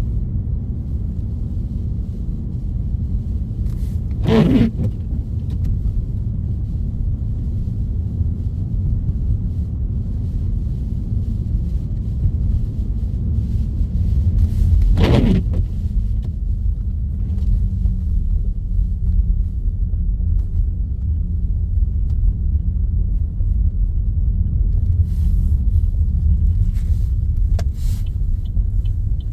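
Steady low rumble of a car driving on a snowy road, heard from the car, with two brief whooshes about four and fifteen seconds in.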